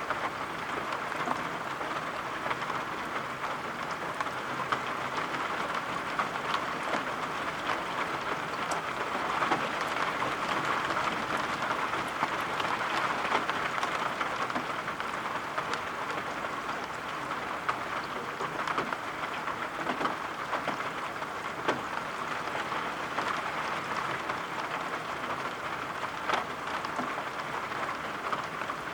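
Steady rain falling, with many scattered sharp drop taps over an even hiss.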